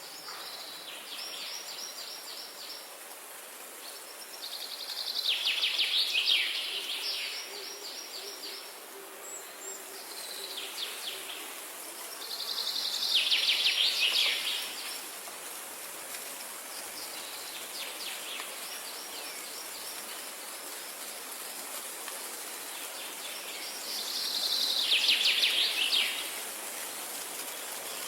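Songbirds singing: three loud song phrases about eight to ten seconds apart, with quieter rapid trills of fast repeated notes between them, over a steady background hiss.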